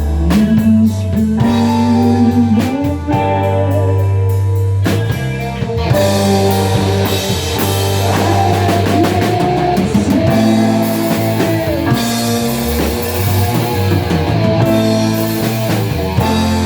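A rock band playing: electric guitar with bent notes over bass and drum kit, with the drums and cymbals getting busier about six seconds in.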